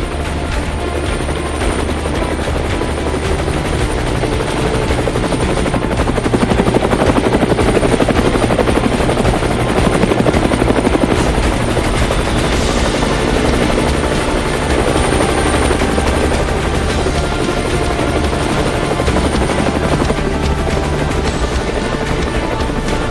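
Helicopter flying past with a steady, rapid rotor chop, growing louder about six seconds in and easing after about twelve seconds.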